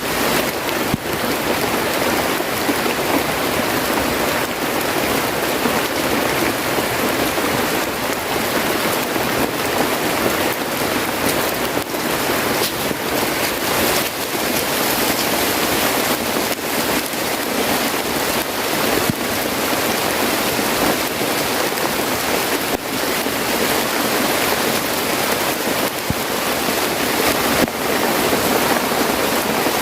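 Steady rain: a dense, even hiss of falling water with many small drop patters, unchanging throughout.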